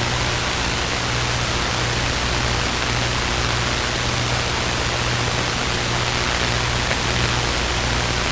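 Steady cockpit noise of a Luscombe light aircraft in flight: a constant engine and propeller drone with the hiss of airflow, holding steady without change.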